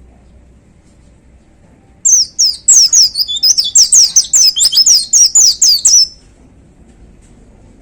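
A pleci (white-eye) singing a loud, rapid burst of high, quick down-slurred whistled notes, starting about two seconds in and stopping abruptly after about four seconds.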